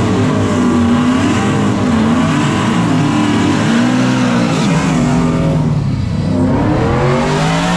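Full-size drag race truck engines revving over and over, the pitch climbing and dropping back each time, with a rising rev near the end.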